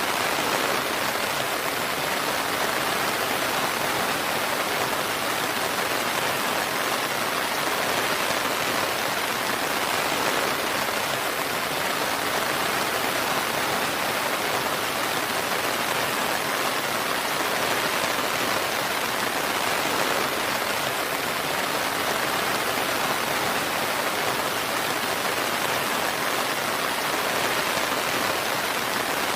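Steady rain falling, an even hiss of many drops with no single drops or thunder standing out.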